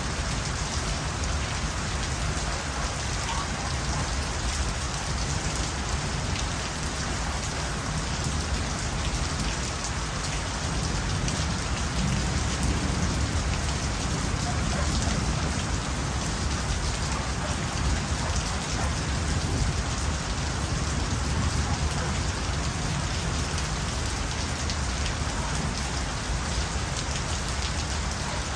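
Steady rain falling at night, with many small drops pattering on a surface.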